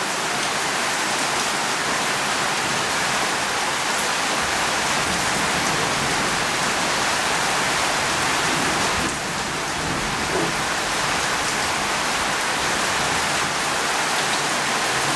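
Steady rain falling on a surface, a dense, even hiss with a brief slight dip about nine seconds in.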